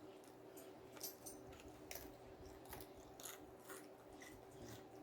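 Faint close-miked chewing: a few soft, irregular mouth clicks over a low steady hum.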